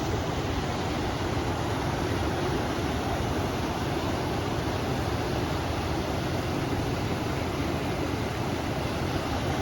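River water rushing with wind blowing, an even, unbroken noise with no separate sounds standing out.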